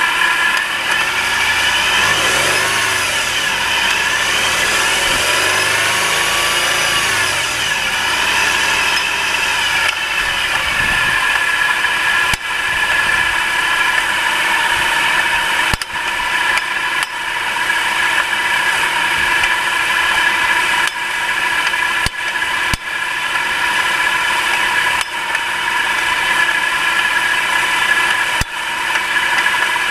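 Nissan March K13 engine running with a steady whine and sharp knocks every few seconds from under the hood. This is the cold-engine knock that stops once the engine has warmed up.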